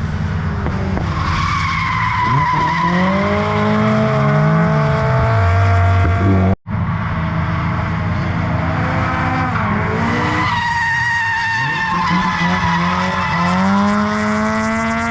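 Drift cars sliding in a close train, tyres squealing steadily while their engines rev up and down at high revs. The sound cuts out for an instant about six and a half seconds in.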